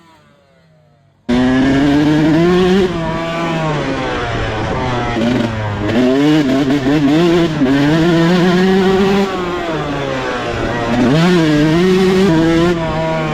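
Dirt bike engine revving as it is ridden, its pitch climbing and dropping again and again with the throttle. It starts abruptly and loud about a second in, after a quiet moment.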